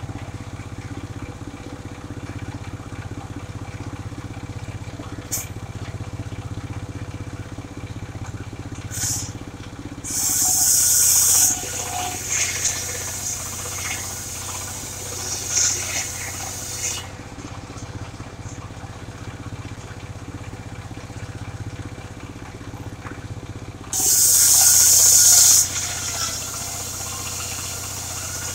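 The engine of a mobile circular sawmill runs steadily. Twice, about ten seconds in and again near the end, a loud high hiss lasts about a second and a half as the circular blade cuts through sengon wood, with a few fainter, shorter ones between.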